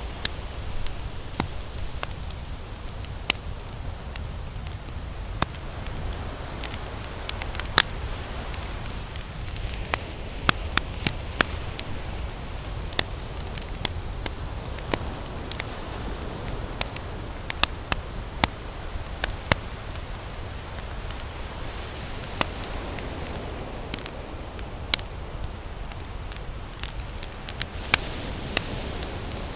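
Campfire crackling, with frequent irregular sharp pops and snaps over a steady low rumbling hiss.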